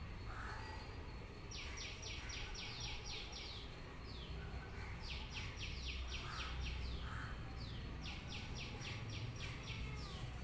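A bird singing a fast trill of short falling notes, repeated as three similar phrases a few seconds apart, over a steady low rumble.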